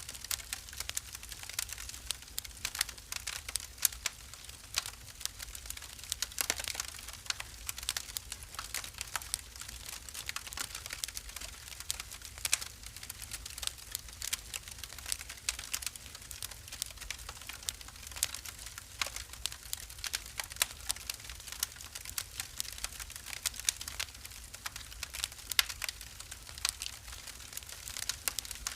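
Wood fire burning in a fireplace, crackling with irregular sharp pops and snaps over a soft steady hiss and a low rumble.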